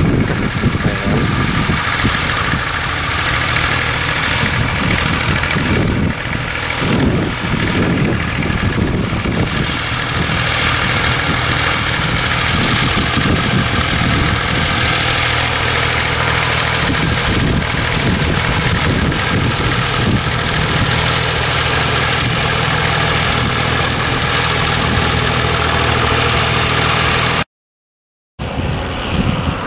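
A tractor engine running steadily at low revs, with a steady low hum and rough noise over it. The sound cuts out for about a second near the end.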